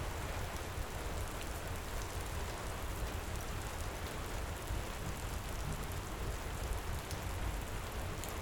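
Heavy rain pouring steadily, with scattered small crackles from a wood fire in a fireplace.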